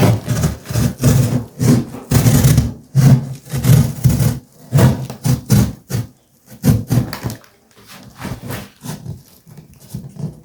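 A run of irregular scraping and rubbing strokes from material being handled and worked, loud at first and weaker after about seven seconds.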